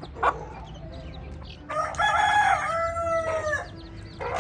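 Rooster crowing once, a loud call of about two seconds that drops slightly in pitch at its end, with a short sharp chicken call just before it and another near the end.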